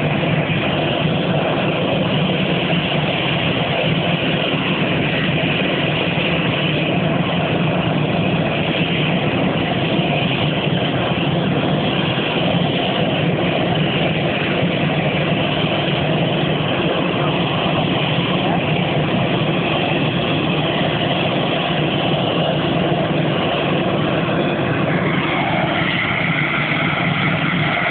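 CFM56-5B turbofan engines of an Airbus A319 running steadily, a constant loud roar with a steady whine through it.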